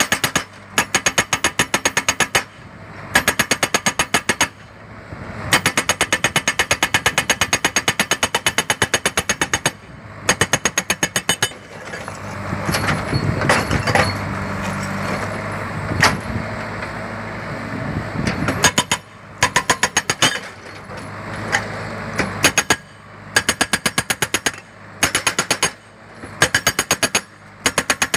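Hydraulic breaker on a JCB backhoe loader hammering in bursts of rapid blows, about seven a second, each burst lasting a few seconds with short pauses between, over the loader's running diesel engine. Through the middle the hammering stops and the engine runs louder, with a few scattered knocks.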